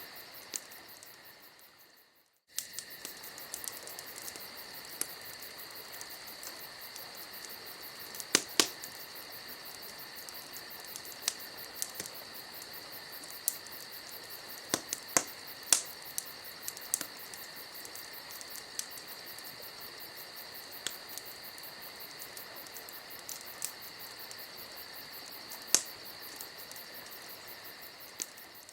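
Campfire night ambience: crickets chirring steadily with scattered sharp crackles and pops of burning wood. The sound fades out and comes back about two seconds in.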